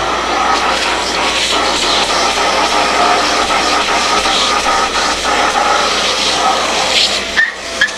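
Kärcher MV6 P Premium wet-and-dry vacuum cleaner running with a steady whining rush of air, dipping briefly near the end.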